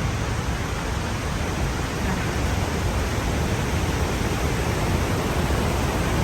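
Steady rushing noise of the Khone Phapheng falls, the Mekong's cascades, an even wash of water noise with no break.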